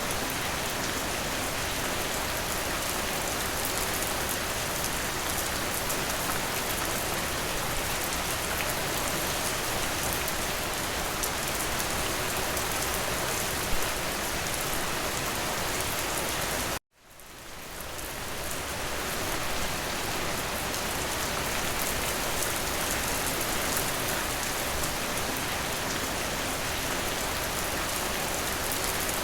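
Steady, dense rain hiss. About 17 s in it cuts out abruptly to silence and fades back in over two or three seconds; a brief sharp tick stands out a few seconds before that.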